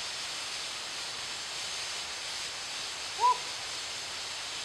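Steady outdoor hiss of rainforest ambience, with one short rising-and-falling call about three seconds in.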